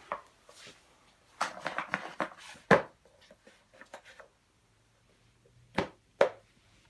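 Rustling and tapping as a picture book is handled: a quick cluster of short rustles and taps, then two single taps near the end.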